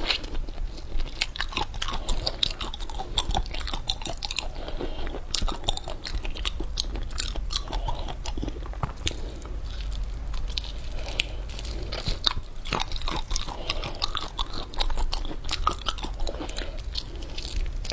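Close-miked eating: a person biting and chewing crunchy food, with many irregular sharp crunches and crackles.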